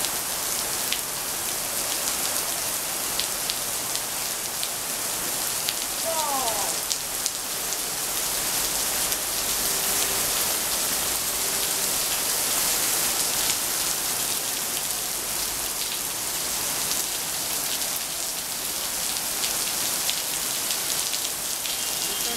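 Heavy rain falling steadily on paving and grass, a dense even hiss with scattered sharper ticks of single drops.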